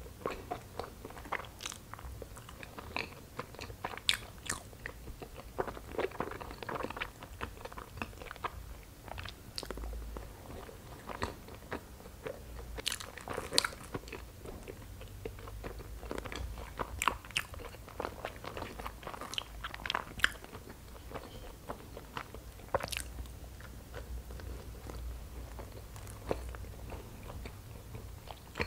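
A person chewing soft, chewy injeolmi rice cakes filled with cream cheese, with irregular clicks of mouth and lips.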